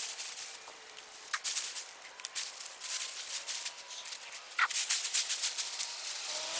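Dry rustling and crackling of potato plants and soil being dug up and handled, in scattered irregular crackles.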